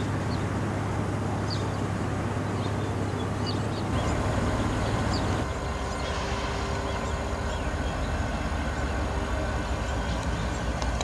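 Diesel locomotives of a Union Pacific freight train, led by a GE AC4400CW with SD70-series units behind, rumbling steadily as the train approaches. A steady whine comes in about five seconds in.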